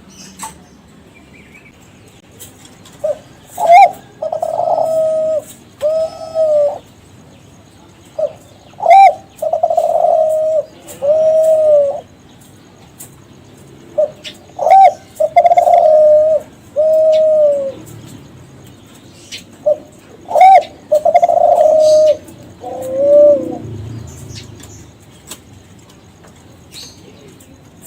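Kelantan derkuku, a spotted dove strain kept for song contests, cooing. It gives four song phrases about six seconds apart, each a short note followed by a run of low, drawn-out coos.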